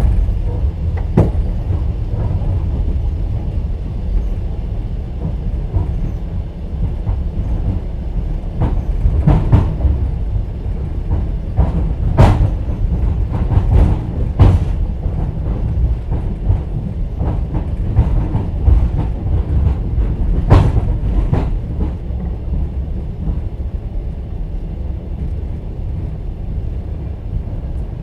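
Train wheels clattering over rail joints, heard inside a platskart (open-plan sleeper) passenger carriage. A steady low rumble is broken by sharp clacks and knocks, clustered between about 9 and 15 seconds in and again at about 20 seconds.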